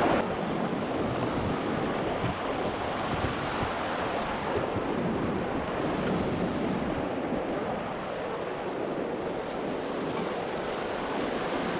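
Steady rush of the Beas River's fast-flowing water around a raft, with wind buffeting the microphone.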